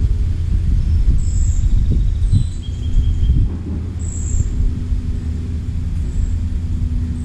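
Short, high, thin bird calls, each sliding slightly downward, repeated every second or two over a loud, steady low rumble; a steady low hum joins the rumble about two and a half seconds in.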